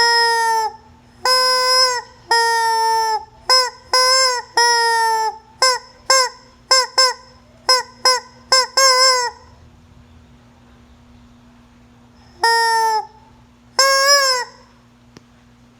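Hen giving a run of loud, high-pitched calls: several drawn-out ones, then shorter, quicker ones, a pause of about three seconds, and two more calls near the end.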